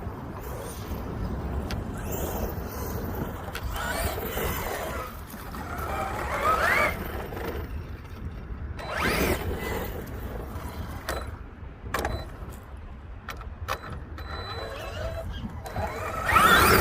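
Arrma Outcast 8S RC truck's brushless electric motor whining in repeated throttle bursts, rising in pitch about four, six and a half and nine seconds in, with a few short clicks near the middle. Steady wind rumble on the microphone underneath.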